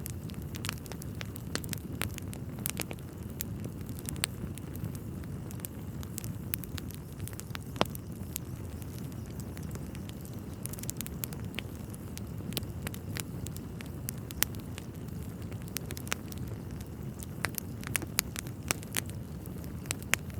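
Wood fire in a fireplace crackling: irregular sharp pops and snaps over a steady low rumble, the loudest pop about eight seconds in.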